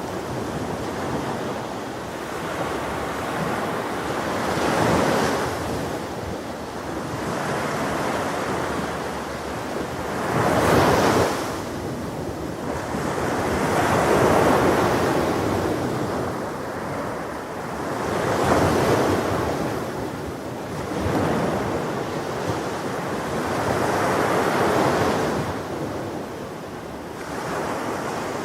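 Ocean waves breaking and washing on a shore, in repeated swells a few seconds apart, with the loudest wave about a third of the way in.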